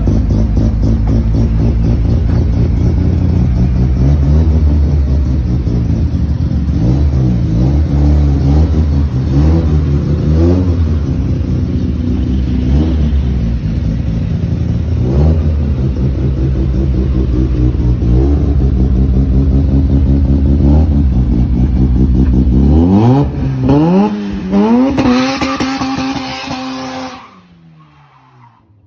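Mazda RX-7 FD's rotary engine revving over and over, its pitch climbing and dropping, ending in a long climb before the sound cuts off suddenly near the end.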